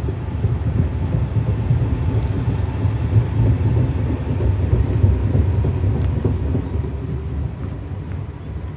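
A train rumbling across the Amarube railway bridge, the low rumble swelling about halfway through and easing off toward the end.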